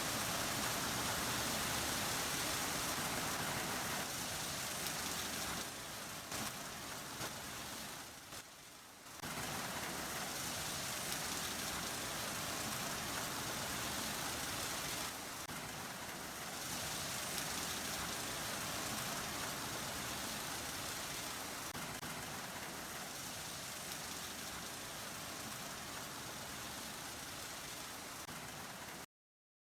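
Sonny's car wash tunnel running, a steady rush of water spray and machinery noise. It dips briefly about eight seconds in and cuts off abruptly near the end.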